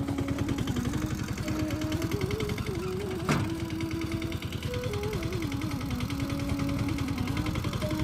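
Tractor diesel engine running at a steady fast chug, with one sharp knock about three seconds in.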